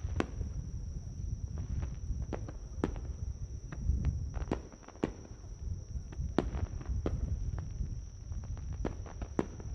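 Scattered sharp pops and clicks, roughly one or two a second at uneven spacing, over a continuous low rumble, with a steady high-pitched insect drone.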